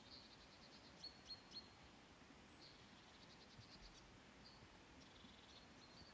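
Near silence, with faint, scattered high chirps and short trills of small birds calling in the distance.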